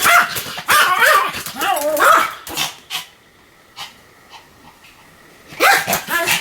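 Pomeranian barking repeatedly in quick runs, then stopping for about two and a half seconds before starting again near the end.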